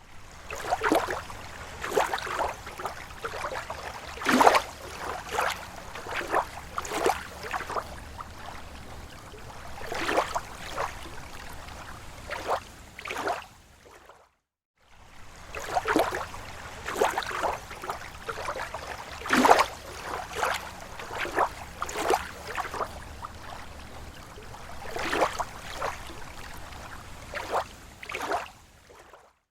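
Small, slow waves lapping at a lake shore: irregular splashes and gurgles over a steady wash of water. The sound cuts out briefly about halfway through, then a similar run of splashes repeats.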